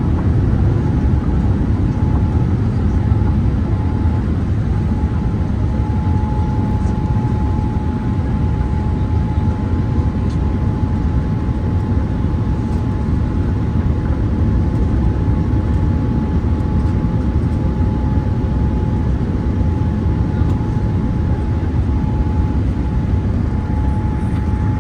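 Steady cabin noise inside a Boeing 787-8 in flight: an even rumble of the engines and airflow, with a steady whine held over it.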